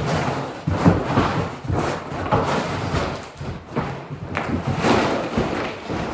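Debris and junk being handled and moved: a run of knocks and thumps about every half second to second, with scraping and rustling between them.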